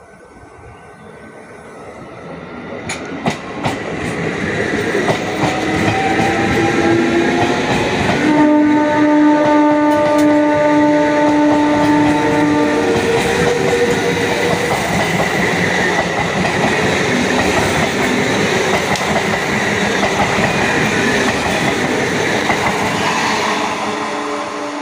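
Local passenger train coming in on the tracks, its noise building over the first few seconds into a steady loud rumble with wheel clatter. Its horn sounds for several seconds about a third of the way in, and the noise eases off near the end.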